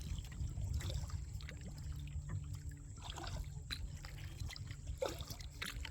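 Kayak paddle strokes in creek water: small splashes and water trickling off the paddle blade, over a steady low hum.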